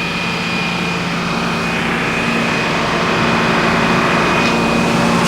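Machinery engine running at a steady speed with a steady high whine, getting slightly louder across the few seconds.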